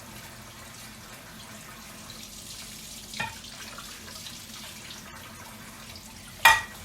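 Steady rushing hiss with a faint low hum, like water running from a kitchen tap, and one short sharp knock near the end.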